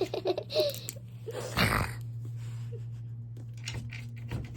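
Girls giggling in the first second, then a brief loud rustle and scattered clicks as a plastic blind-bag wrapper is worked at, all over a steady low hum.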